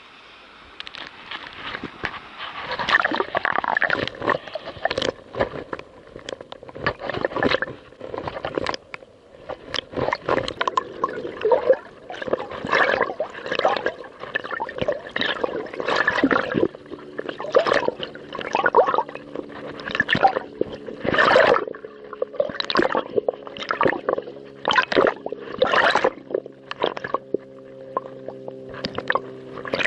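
Waves sloshing and slapping against a kayak hull and nearby rocks, an uneven string of splashes and gurgles. About halfway through a steady droning hum joins underneath.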